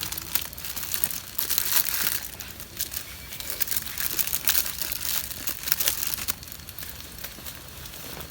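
Crinkling and rustling handling noise: a dense, irregular run of short crackles and scrapes.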